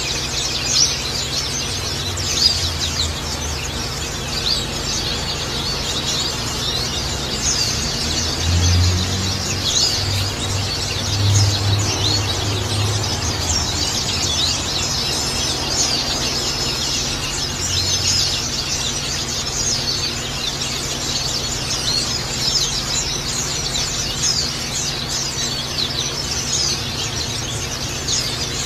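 Dense, continuous twittering and chirping of many small birds over a steady trickle of water, played as a masteran therapy track to calm a caged bird and draw it into song.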